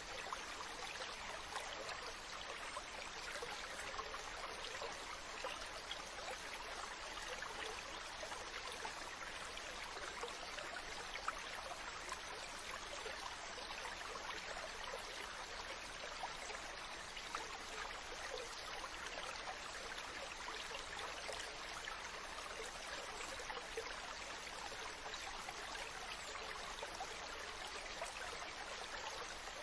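Ocean water washing steadily, an even hiss without distinct wave swells, with faint small splashes here and there.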